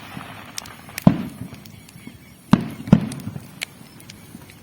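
Fireworks going off: three sharp bangs, about a second in, then two in quick succession about two and a half seconds in.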